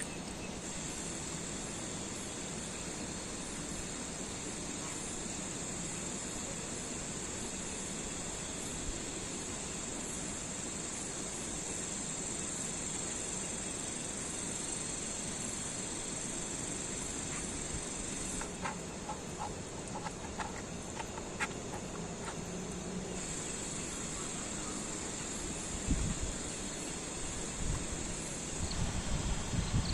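Insects trilling in one steady high-pitched drone that stops about 18 seconds in and starts again about five seconds later, over a steady background hiss. A few light clicks come while the drone is off, and some low thumps come near the end.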